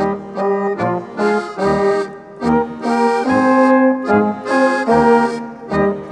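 Instrumental folk dance music led by accordion, with chords and bass notes on a steady, regular beat.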